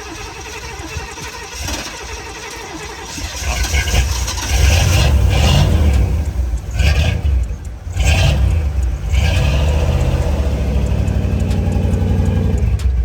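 Old carbureted car engine cranking with the gas pedal being pumped, catching about four seconds in, revved in a few bursts, then settling into a steady, deep idle.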